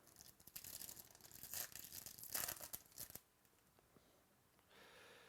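Crackly plastic-and-card rustling of trading cards being handled, with many small clicks, for about three seconds.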